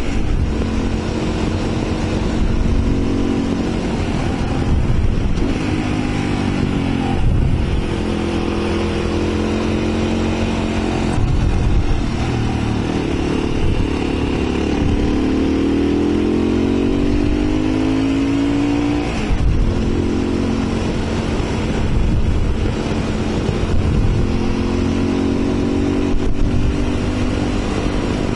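Single-cylinder adventure motorcycle engine (Mondial RX3i Evo, 250 cc) running under way, its pitch climbing as it pulls and dropping suddenly about seven seconds in and again about two-thirds through, over steady wind rush on the helmet microphone.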